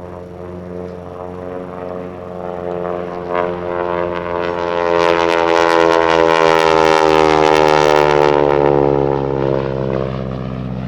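North American T-6 Texan with its Pratt & Whitney R-1340 radial engine on a low fly-by: it swells to a peak about five to eight seconds in with the rasping rap of the propeller, whose tips go supersonic, then drops in pitch as it passes and the throaty roar of the radial fades.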